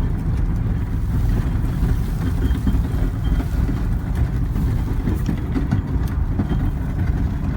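Pickup truck engine running steadily under load, pulling the truck in four-wheel drive up a steep snowy grade on cable tire chains while pushing snow with the plow blade down.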